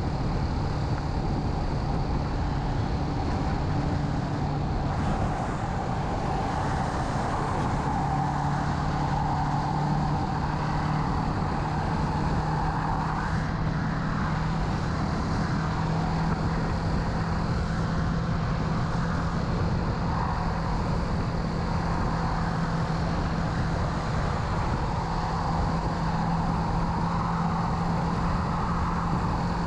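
Kawasaki Z650's parallel-twin engine running steadily under way, with wind and road noise over a helmet-mounted microphone. The engine note holds steady, creeping up slightly in pitch a few seconds in and again midway.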